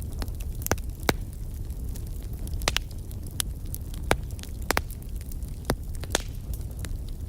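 Fire crackling: irregular sharp pops and snaps, about ten of them, over a steady low rumble of the burning fire.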